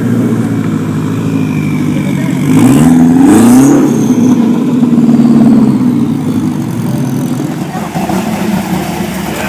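Car engine running, revved up about two and a half seconds in, its pitch climbing and staying loudest for a few seconds before easing back down.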